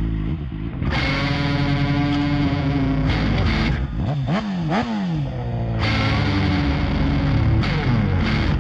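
Rock song's instrumental break: distorted electric guitar through effects, playing held chords with pitch slides in the middle.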